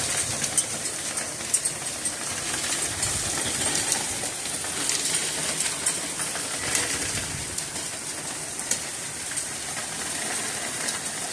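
Heavy hail falling in a dense, steady shower, a constant hiss of stones striking hard surfaces with frequent sharp individual ticks and clicks.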